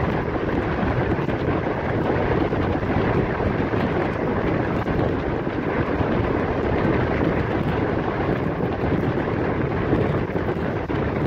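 Passenger train running along the track, heard from an open window: a steady rush of wind on the microphone over the rumble of the wheels on the rails.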